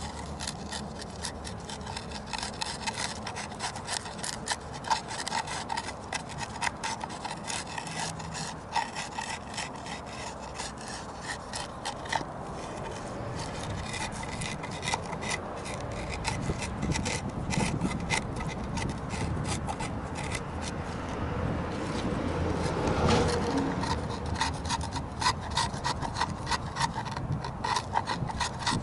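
Hand tool scraping and rasping wood in quick, repeated strokes, gouging away charred wood. The strokes grow heavier for a moment about two-thirds through.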